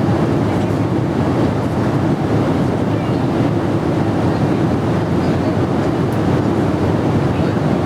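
Steady cabin noise inside a Boeing 777-300ER airliner in flight: an even rush of airflow and engine noise from its GE90 engines, mostly low rumble.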